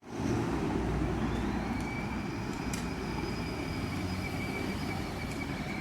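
Motorcycle running steadily while being ridden: a continuous low rumble with a thin, steady high whine over it and a few faint clicks.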